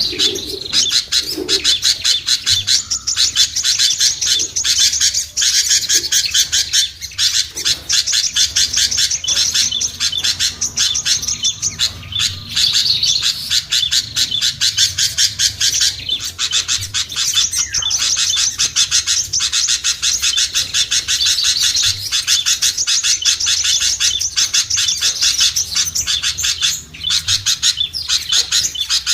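A bird-lure recording of many small songbirds chattering and twittering together: a dense, unbroken stream of quick, high chirps with no pauses. It is a mixed small-bird call used to draw shy birds down.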